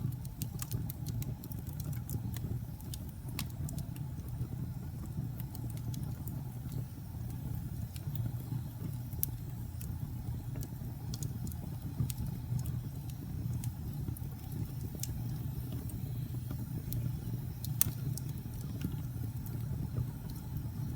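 Fireplace fire burning with a steady low rumble of flames and frequent irregular crackles and pops, one sharper pop a few seconds before the end.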